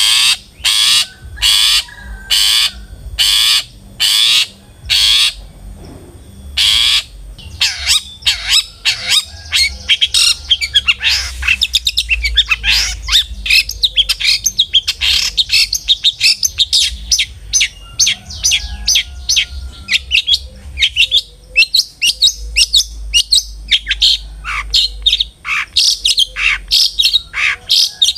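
Long-tailed shrike (cendet) calling: a series of harsh, evenly spaced rasping calls, about two a second, then from about seven seconds in a fast, varied chattering song of many short notes.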